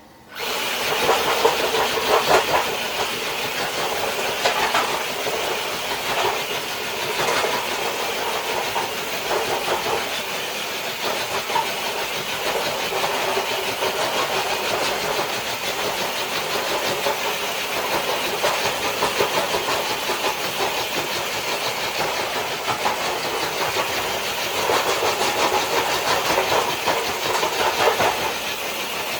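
RC crawler truck dragging a weighted dead sled across concrete: a loud, steady scraping and running noise that starts abruptly and continues without a break.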